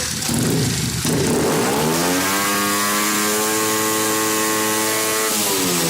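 88cc Chinese small engine revving up to wide-open throttle about a second and a half in, holding a steady high note for about three seconds, then dropping back near the end. The engine has no rev limiter.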